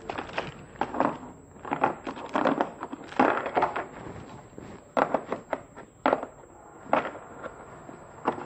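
Tools being handled in a moulded plastic tool case: irregular clicks and knocks of items against the plastic, with rustling of a plastic bag, and a few sharper knocks in the second half.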